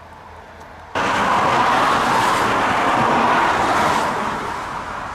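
A road vehicle passing close by: a steady rush of tyre and road noise that starts abruptly about a second in and eases slightly toward the end.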